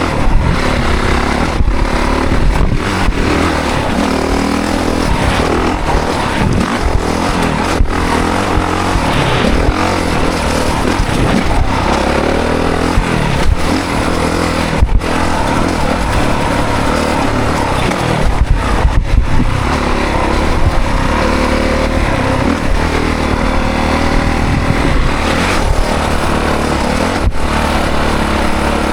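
Honda CRF450 dirt bike's single-cylinder four-stroke engine under hard riding. It revs up and down over and over as the throttle is worked, with brief sharp dips in sound where the throttle closes or a gear changes.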